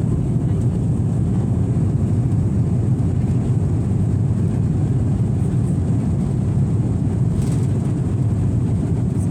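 Airliner cabin noise: the jet engines and airflow make a steady, loud low rumble as the plane climbs shortly after takeoff.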